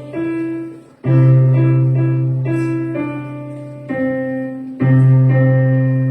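Piano or keyboard playing a simple melody over sustained bass notes, with new chords struck about a second in and again near five seconds, each fading away.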